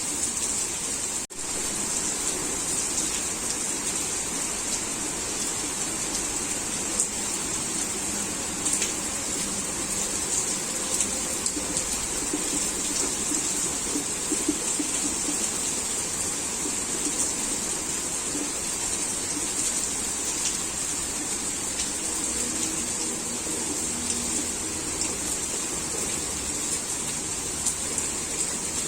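Heavy rain falling: a steady, dense hiss with scattered drop ticks. There is a brief dropout in the sound about a second in.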